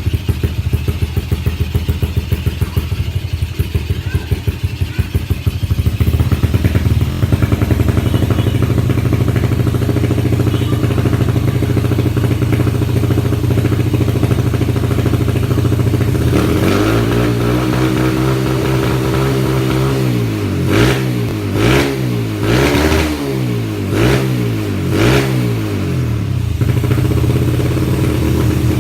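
Yamaha Vega R's single-cylinder four-stroke engine running through its stock exhaust, idling with a somewhat choppy beat. In the second half it is revved up and down several times, then drops back to idle near the end.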